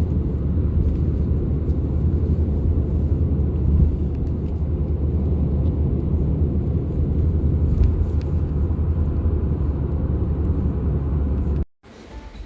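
Steady low rumble of a vehicle in motion, ending abruptly near the end.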